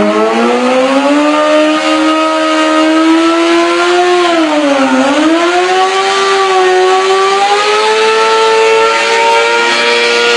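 Motorcycle engine under hard acceleration, its pitch climbing steadily, easing off and dropping briefly about halfway through, then pulling up again to a higher steady pitch.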